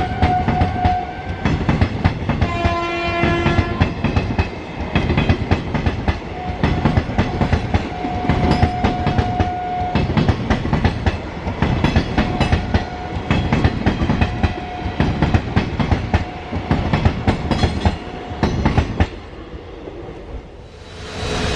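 Indian Railways train passing close, its wheels clattering rapidly over the rail joints, with a short horn blast about three seconds in. The clatter drops away near the end.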